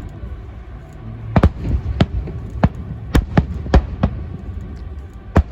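Fireworks bangs: about nine sharp, irregular reports, most packed between one and four seconds in and one more near the end, over a steady low rumble.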